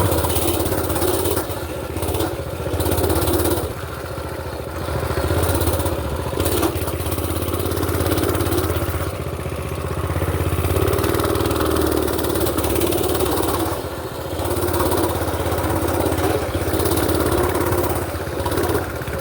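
Mini bike engine running under way, its note swelling and easing every few seconds as the throttle is worked on the trail.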